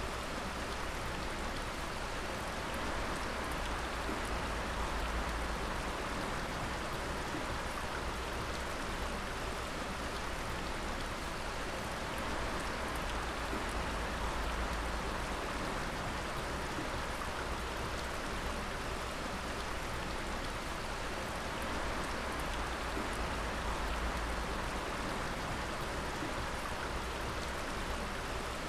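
Water dripping steadily: many drops falling at once, giving an even rain-like hiss with small drop ticks through it.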